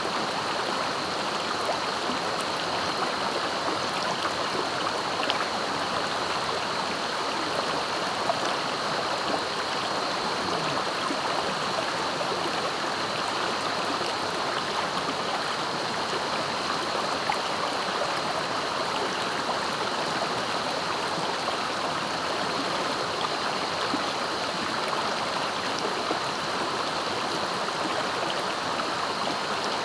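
Swift, clear river rushing and gurgling steadily over its bed, with a faint steady high-pitched tone above the water noise.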